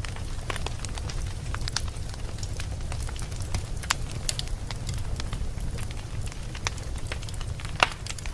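Fire burning in a fireplace, crackling with scattered irregular pops over a steady low rumble, one sharper pop near the end.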